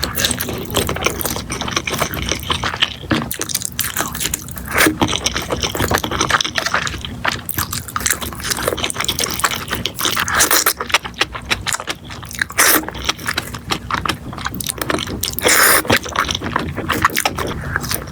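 Close-miked noodle eating: slurping and chewing, a dense run of irregular wet clicks and smacks.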